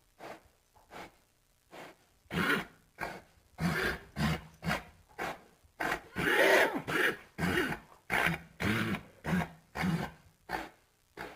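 Horse breathing hard in short noisy puffs and snorts, about two a second, loudest in the middle where one puff carries a brief low voiced sound.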